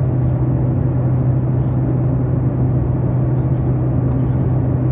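Steady drone of an airliner's engines and airflow heard inside the passenger cabin: a constant deep hum under an even rushing noise.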